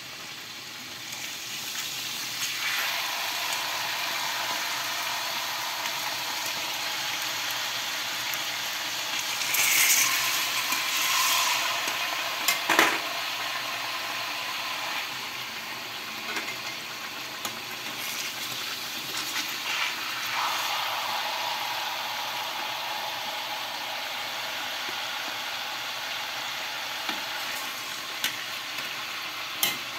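Banana-leaf-wrapped botok parcels sizzling steadily in bubbling oil in a wok. The sizzle swells about ten seconds in, and there is one sharp knock of the metal spatula against the wok just after, with a few lighter ticks later on.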